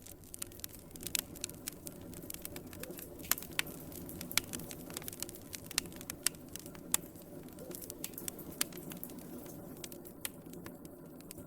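Wood fire in a fireplace crackling: irregular sharp pops and snaps over a steady low rush of flames.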